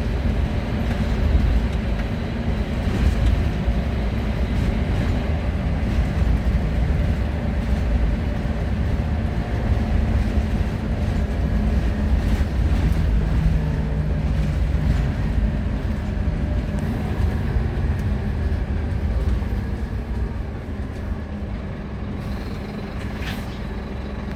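Wright Solar Rural Scania single-deck bus on the move, heard from inside: a steady low engine and road noise. The engine note shifts about halfway through, and it gets a little quieter near the end.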